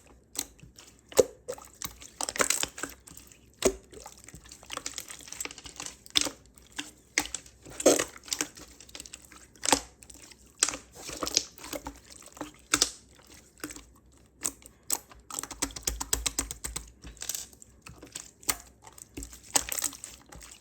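Clear slime being pressed, stretched and folded by hand, giving off irregular sticky clicks and wet crackles.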